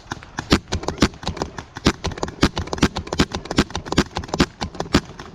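Paintball markers firing: an irregular stream of sharp pops, several a second, some much louder and closer than others.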